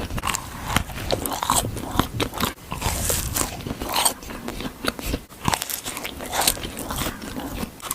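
Close-up eating sounds: a person biting and chewing crunchy food, with many irregular crunches and crackles.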